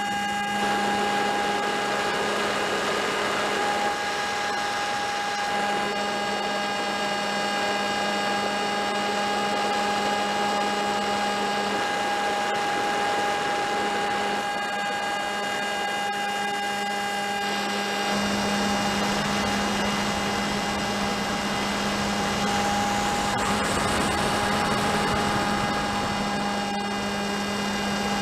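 Electric motor and propeller of a HobbyKing Drifter RC plane in flight, a steady whine at nearly constant throttle.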